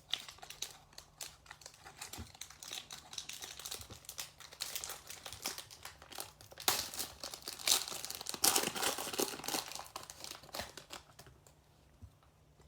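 Baseball card pack wrapper being torn open and crinkled by hand, a run of crackly rustling that is loudest past the middle and dies away near the end.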